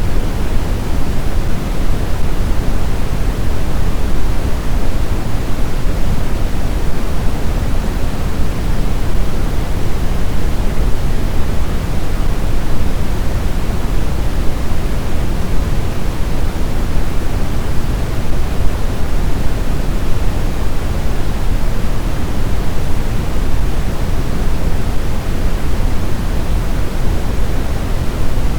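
Steady snowstorm wind: a dense, even rushing noise, heaviest in the low end, with no gusts, whistles or breaks.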